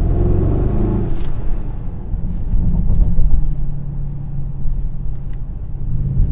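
Mercedes-AMG GLS 63's 4.0-litre twin-turbo V8 and exhaust running under way in Sport Plus, heard from the cabin with the sunroof tilted open, its pitch shifting as the revs change. One sharp crack about a second in.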